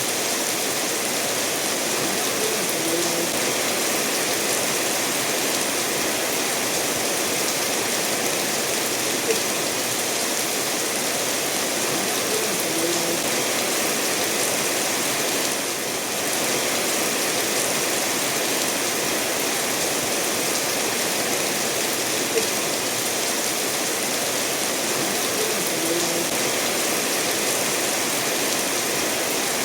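Steady rainfall mixed with a stream running over stones, an even rushing hiss with an occasional louder drip standing out.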